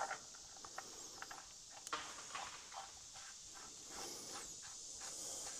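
Faint, scattered metal clicks and taps as the oil drain plug is put back into a Massey Ferguson 50 tractor's oil pan and tightened, over a steady high insect hum.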